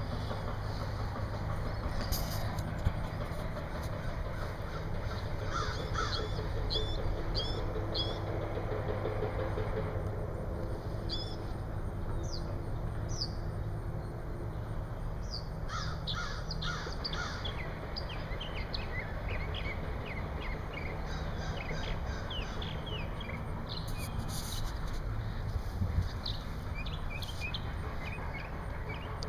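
Wild birds chirping and calling, with many short high chirps scattered throughout and a few harsher, lower calls. Under them is a steady low background rumble.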